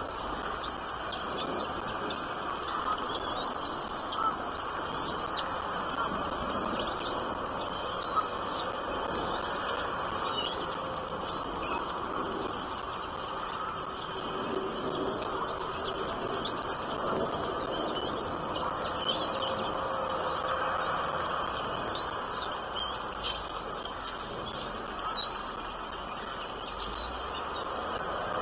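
Small birds chirping: many short, high chirps repeated irregularly, over a steady background hiss.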